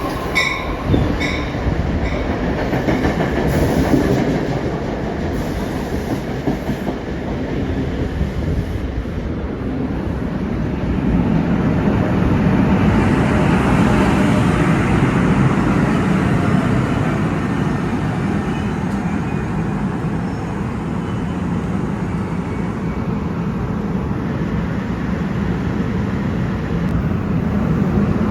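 Train running past on the tracks, wheels clattering over the rails, growing louder about eleven seconds in.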